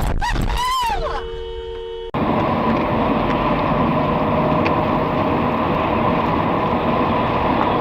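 Steady vehicle driving noise of engine and road rumble picked up by a dashcam, starting abruptly about two seconds in. Before it come rising and falling pitch glides and a short steady electronic tone.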